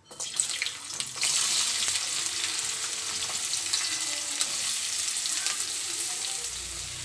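Cut raw amla (Indian gooseberry) pieces poured into hot oil in a kadhai, setting off loud sizzling. It starts suddenly, swells about a second in as more pieces drop in, then holds steady with crackles.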